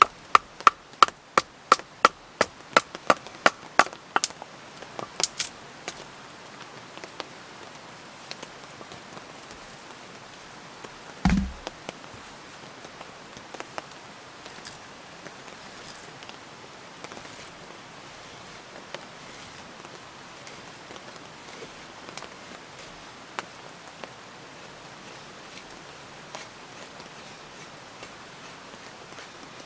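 Small dry twigs and kindling being snapped and processed for a fire: a quick run of sharp woody cracks, about three a second, for the first few seconds, then one heavier knock about eleven seconds in and scattered light clicks after. A steady rain hiss sits underneath.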